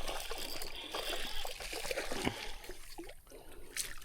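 River water trickling and splashing unevenly.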